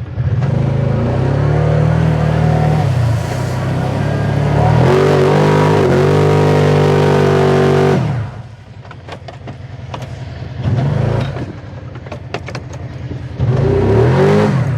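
Kawasaki Teryx side-by-side's engine revving hard under load as it fights its way out of a soft, muddy creek crossing. It climbs in pitch, is held high for a few seconds, then drops back, and two shorter bursts of throttle follow near the end.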